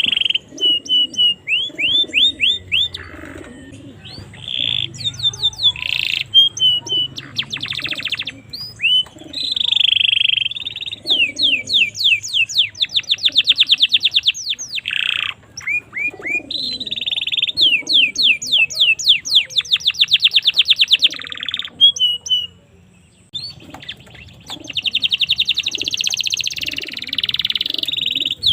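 Domestic canary singing a long, varied song of fast trills and rolls of quickly repeated high notes, broken by a short pause about three-quarters of the way through.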